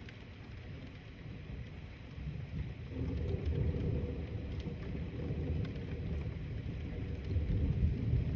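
Low rolling thunder that swells about three seconds in and keeps rumbling, over light rain ticking down.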